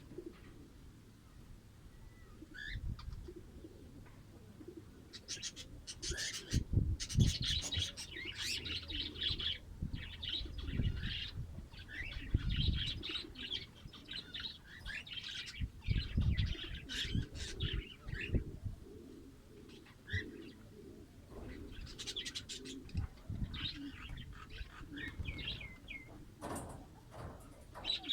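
Fischer's lovebirds chirping in rapid, high twittering bursts, with low flutters and thumps of wing movement among the calls.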